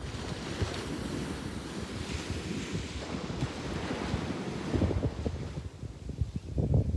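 A sea wave breaking and washing up the beach, a broad hiss of surf that sets in abruptly and dies away about six seconds in. Gusty wind buffets the microphone throughout.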